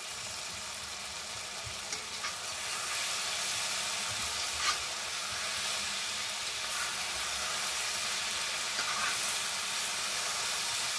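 Okra, onions and spice masala sizzling steadily in oil in a metal pan, freshly wetted with tamarind water, while a spatula stirs and scrapes the pan a few times. The sizzle grows a little louder a few seconds in as the masala is fried down so the spices cook through without burning on the bottom.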